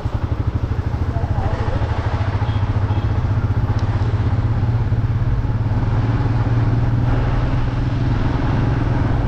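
Motorcycle engine running steadily on the move, with a fast, even pulsing beat and a hiss of wind and road noise.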